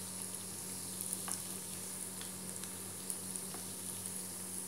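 Breaded cutlets sizzling as they shallow-fry in hot oil in a pan, with scattered small pops and crackles. A metal spoon touches the pan a few times as the cutlets are turned.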